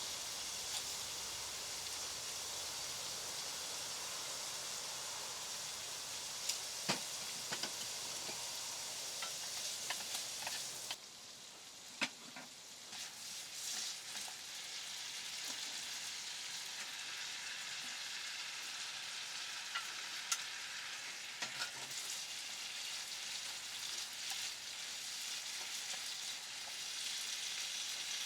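Food sizzling in a frying pan, a steady hiss with scattered sharp pops.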